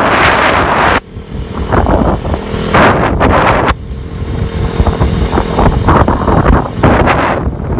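KTM RC 200's single-cylinder engine running, with wind noise on the microphone. The loudness drops sharply about a second in and again near the middle.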